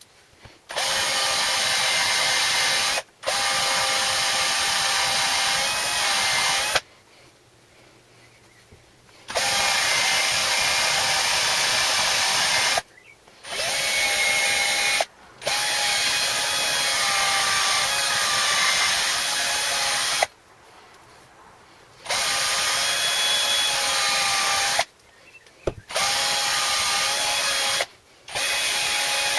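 Handheld power tool, drill-like, running in about eight bursts of one to five seconds each with short pauses between. Each burst is a steady whine over hiss, and the pitch dips briefly now and then as the tool takes load.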